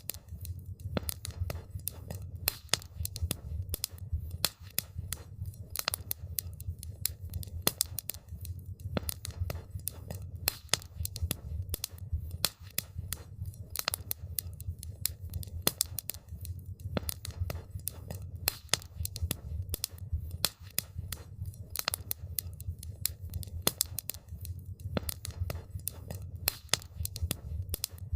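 Wood campfire crackling: a dense, irregular run of sharp pops and snaps over a steady low rumble.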